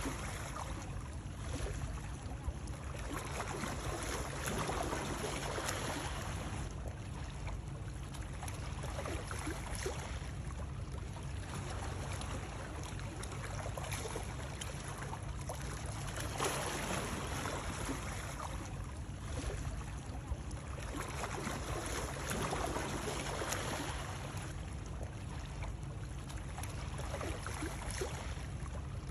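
Continuous water sound, trickling and lapping in gentle swells that rise and fall every two to three seconds over a steady low rumble.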